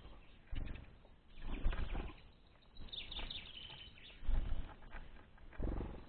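Small birds fluttering their wings in short bursts, four or five times, with a brief high twittering about halfway through.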